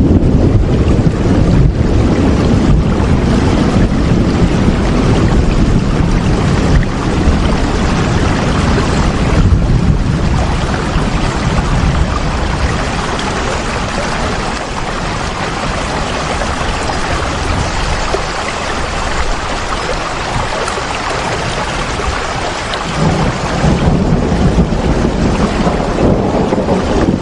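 Heavy rain falling steadily over a deep low rumble. It eases through the middle and swells again near the end.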